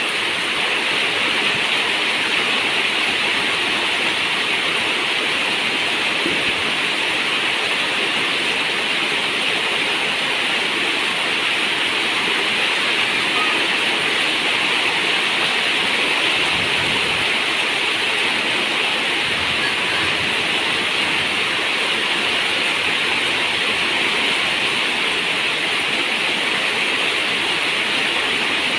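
Steady, heavy rain: an even, continuous hiss with no let-up.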